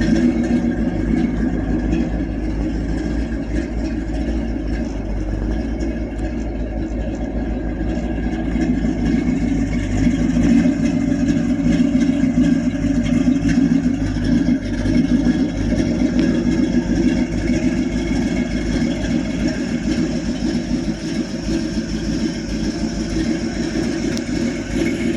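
1969 GMC pickup's 350 small-block V8 with Vortec heads idling steadily.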